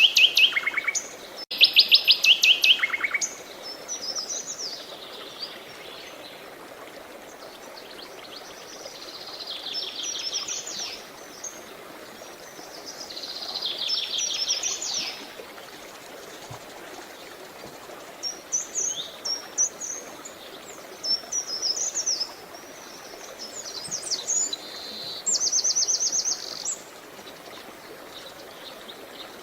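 Songbirds singing in separate phrases of rapid trills and chirps, with gaps of several seconds between some of them, over a steady rush of running water.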